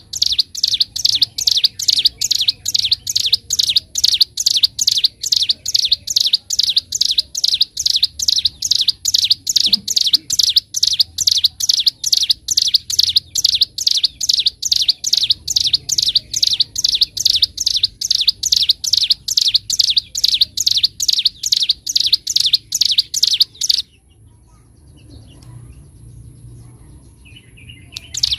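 Ciblek gunung, a prinia songbird, singing a fast drilling run of sharp, high, evenly repeated chirps, about three a second. The song breaks off about 24 seconds in and starts again near the end.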